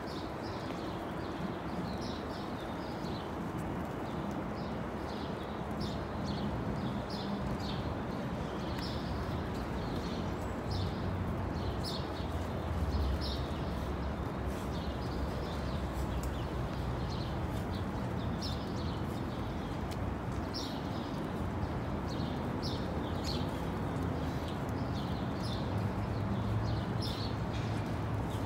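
Small birds chirping in quick, irregular bursts over a steady low rumble of outdoor background noise.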